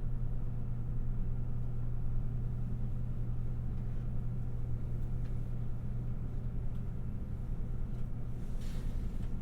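Steady low hum of an electric limited-express train's onboard equipment while it stands ready to depart, heard from inside the passenger car, with a few faint clicks and a brief hiss near the end.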